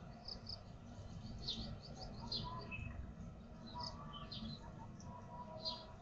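Small birds chirping in short, high, repeated notes, several a second, over a faint low steady rumble.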